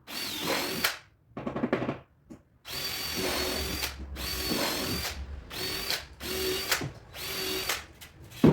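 12 V cordless DeWalt drill-driver running in about seven short bursts, driving screws into MDF panels, with a steady motor whine in each burst. A sharp knock near the end.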